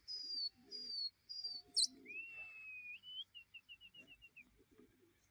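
Small songbird singing clear whistled notes: a few short falling whistles, a long held whistle that lifts at its end, then a quick run of short notes. Underneath are the low, soft coos of pigeons.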